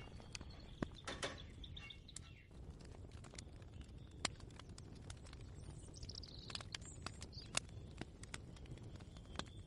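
Faint kitchen ambience: a steady low rumble with scattered light clicks and taps, and a bird chirping outside, most clearly about six seconds in.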